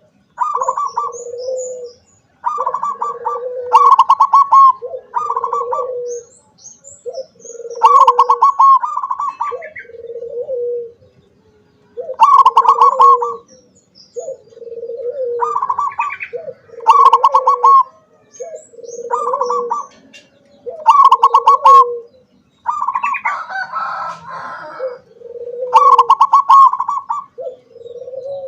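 Zebra dove (perkutut) singing: one cooing phrase after another, each a quick run of pulsing, bubbling coos, with short pauses between them.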